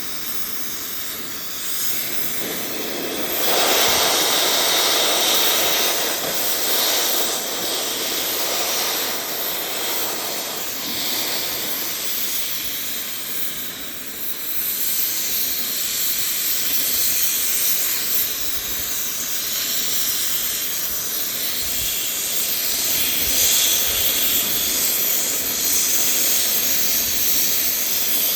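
Gas cutting torch hissing steadily as it flame-cuts through a steel excavator track chain link; the hiss gets louder about three and a half seconds in and holds there.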